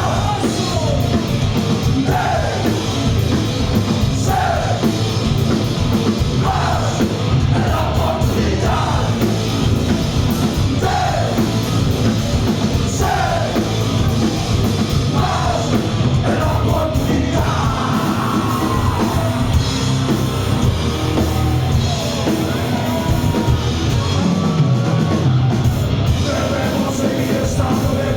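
A heavy rock band playing live and loud, with a shouted lead vocal in short falling phrases over the full band.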